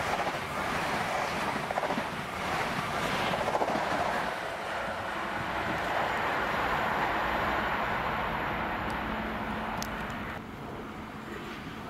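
Trains running through a main-line station: the steady rush of a Heathrow Express electric train passing close, then the drone of an approaching InterCity 125 high speed train. The noise drops a little about ten seconds in.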